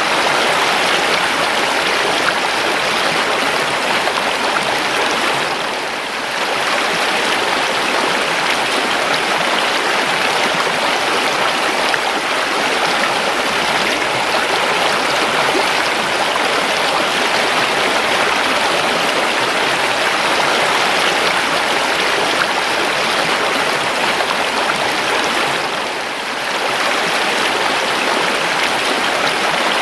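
River water flowing: a steady rush of running water that dips briefly twice, about twenty seconds apart.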